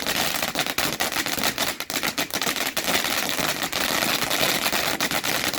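Fireworks crackling densely: a steady hiss packed with rapid sharp cracks, like a crackling-star effect going off.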